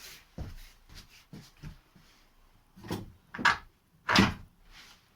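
Metal knocks and clunks as a VAZ-2115 steering rack is worked loose and pulled out of the car. The knocks come irregularly, and the two loudest fall about three and a half and four seconds in.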